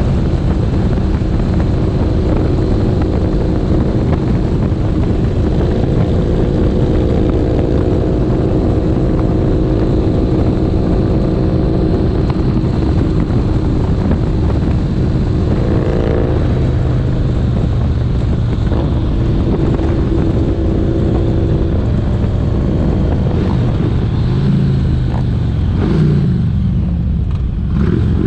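Motorcycle engine running steadily while riding, with wind rush over the microphone; its pitch shifts about halfway through and again near the end.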